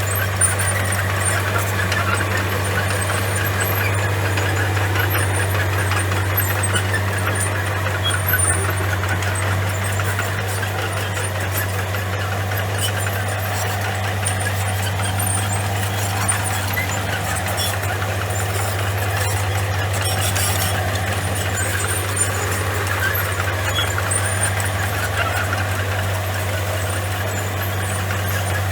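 Bulldozer's diesel engine running steadily with a deep, even hum that holds at one speed.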